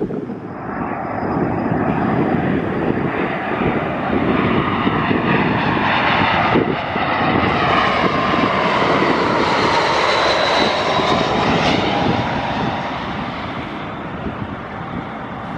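Airbus A319 jet airliner passing with its engines running, the engine noise and a whine over it building to a peak mid-way and easing off toward the end.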